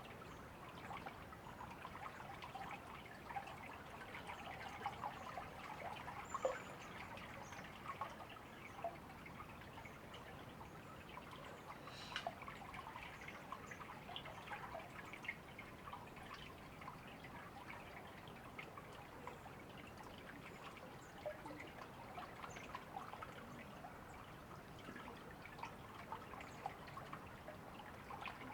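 Shallow river water trickling and babbling steadily over stones, a continuous run of small splashes and gurgles.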